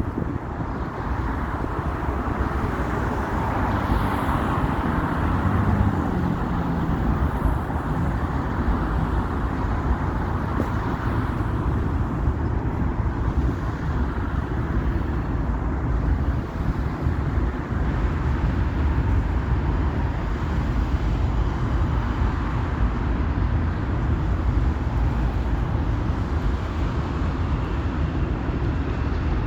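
Moving train running steadily: a continuous low rumble and rushing noise.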